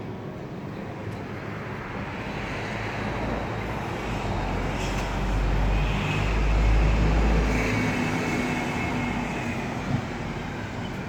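A motor vehicle passing close by. Its engine rumble and road noise swell over several seconds, are loudest a little past the middle, then fade.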